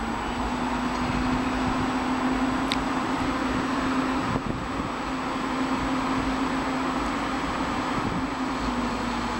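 Munich S-Bahn class 423 electric multiple unit standing at the platform, its air-conditioning and ventilation equipment humming steadily with a constant low tone.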